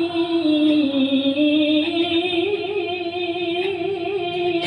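A Quran reciter's voice holding one long, ornamented melodic note in tajwid-style tilawah, the pitch sinking slowly and then rising again, with small wavering turns.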